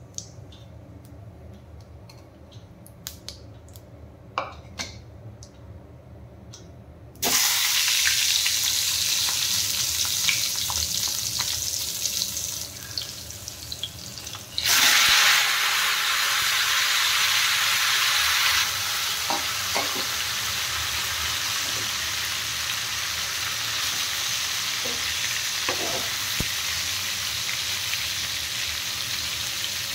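Small crackles of cumin seeds in hot mustard oil. Then a loud sizzle starts suddenly about seven seconds in and surges again about halfway through, as masala-stuffed tinde (Indian round gourds) with onions and chillies go into the oil. The frying then sizzles steadily, with a few light spatula scrapes.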